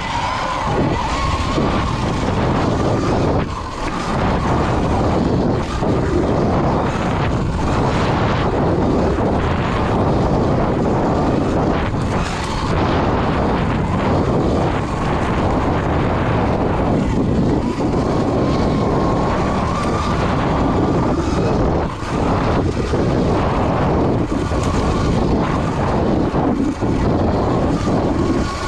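Electric dirt bike ridden along a trail: a thin motor whine that rises and falls with the throttle, over steady rough wind and tyre noise.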